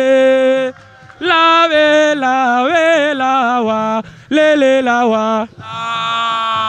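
A solo voice singing a Wolof song in long, ornamented phrases that bend and waver in pitch, with short breaks between them and a faint beat underneath; a different sung line comes in near the end.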